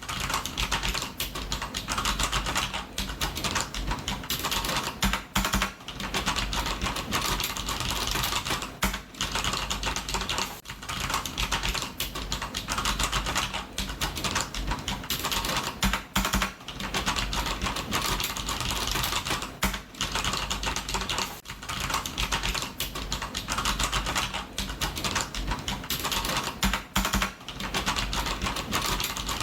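Computer keyboard typing: fast, continuous key clicks with brief pauses now and then.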